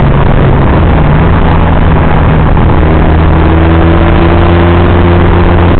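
An engine running steadily, loud and close on the microphone, with a higher tone joining about halfway through.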